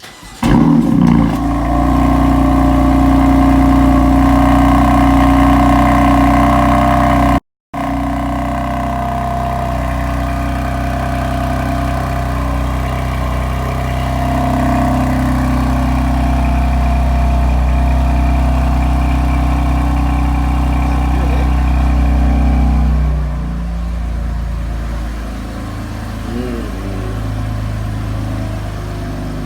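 BMW M4 Competition's twin-turbo straight-six starting up through a full M Performance exhaust: it fires with a loud flare about half a second in, then holds a steady high idle. There is a brief break in the sound about a quarter of the way through, and near the three-quarter mark the idle drops and settles lower and quieter.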